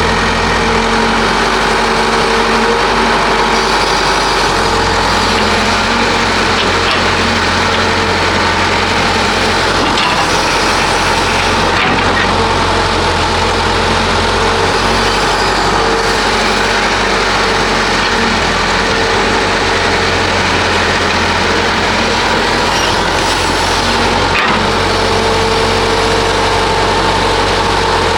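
Heavy diesel excavator engine running steadily at work, with a few faint knocks.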